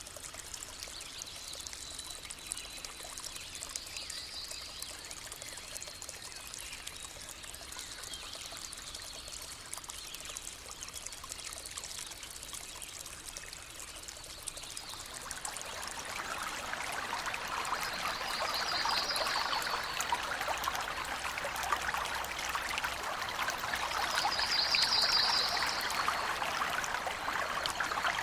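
Forest stream trickling and pouring steadily, growing louder about halfway through, with a few short high bird trills.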